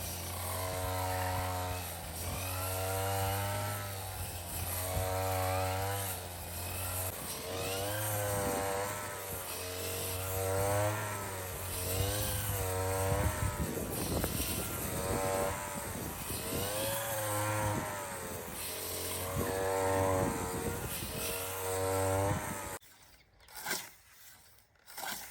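Petrol brush cutter mowing grass, its engine pitch rising and falling with each sweep about every two seconds; the engine cuts off near the end.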